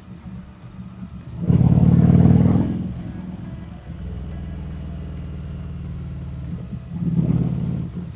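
Harley-Davidson Street Rod 750's V-twin engine running under way, swelling louder twice as the throttle opens, first for about a second and a half near the start and again briefly near the end.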